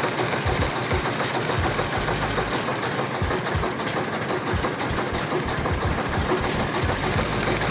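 Detroit Diesel Series 60 11.1-litre inline-six diesel running roughly just after a hard start, with irregular low thumps instead of an even beat: a misfire from bad injectors, with only a couple of cylinders firing.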